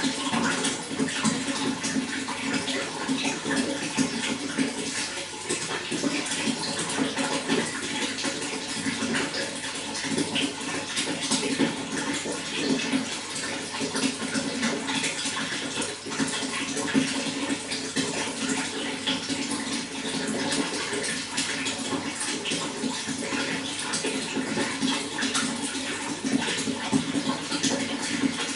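Running water flowing steadily, a continuous splashing and gurgling.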